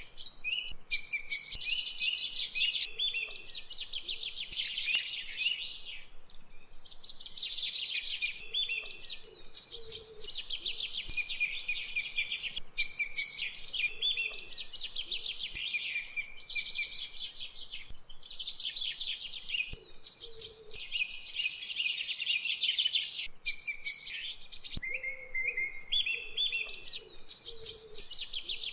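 Birds chirping in rapid high trills, several calls overlapping almost without pause.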